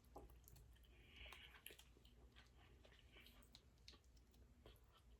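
Near silence, with faint scattered clicks throughout and a brief soft hiss about a second in.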